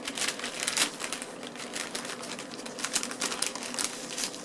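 Paper food wrapper crinkling and rustling as it is handled, a quick irregular run of small crackles.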